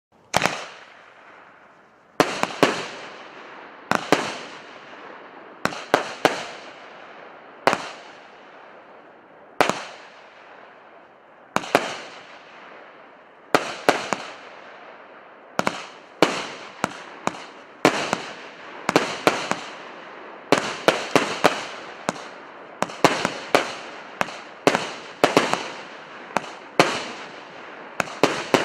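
Consumer firework battery (multi-shot cake) firing shot after shot: each sharp bang is followed by a fading crackling hiss. The shots come about every two seconds at first, then faster and in quick clusters over the second half.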